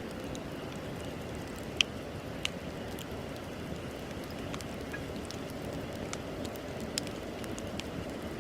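Wood bonfire burning: a steady low rush of flame, with scattered sharp crackles and pops of the burning wood. The loudest pop comes about two seconds in.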